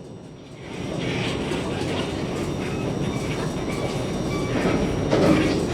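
CSR Zhuzhou "AMY" LRT train running between stations, heard from inside the car: a steady rumble of wheels on rails with some clickety-clack. The sound dips briefly in the first second, then holds steady and grows a little louder near the end.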